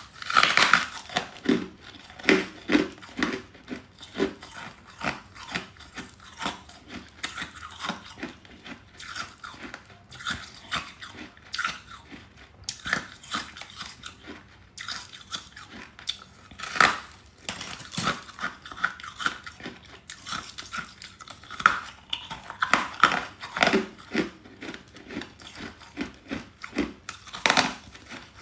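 A person biting and chewing chunks of hard freezer frost, close to the microphone: sharp crunches in clusters, with quieter crackling chews between them.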